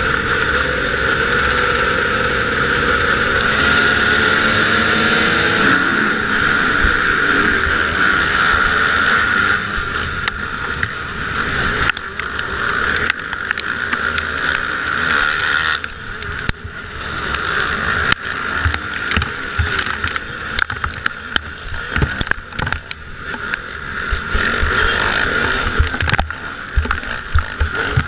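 Motocross motorcycle engines running hard at high revs, the pitch rising and falling as they rev.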